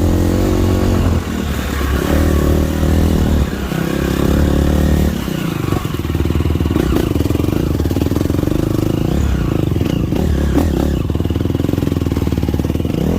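Motocross dirt bike engine running on the track, the throttle opening and closing several times in the first few seconds, then holding a steadier, somewhat lower note.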